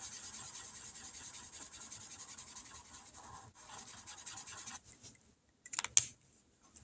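A marker colouring in on paper: fast back-and-forth scratchy strokes that stop about five seconds in, then a couple of sharp clicks near the end.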